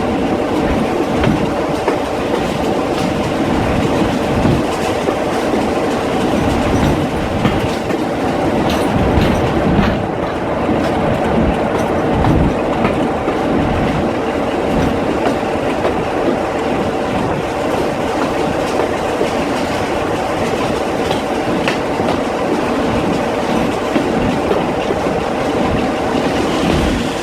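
Heritage train running along the track: a steady rumble of wheels on rail with irregular knocks and a faint steady hum, unchanging throughout.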